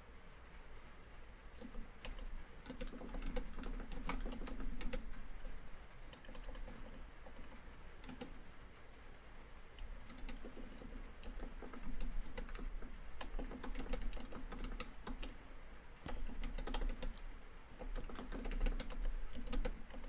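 Typing on a laptop keyboard: quick irregular runs of key clicks with short pauses between them.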